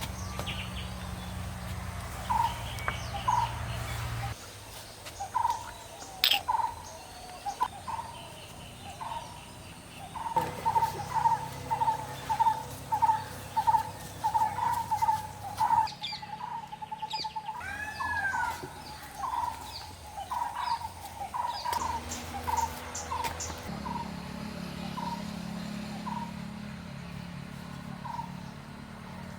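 Bird calling in a series of short repeated notes, sparse at first, then quickening to several a second through the middle before slowing again, with a few higher chirps from other birds.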